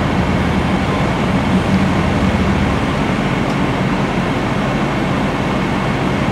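Freight train's boxcars rolling through a level crossing: the steady rolling noise of steel wheels on the rails.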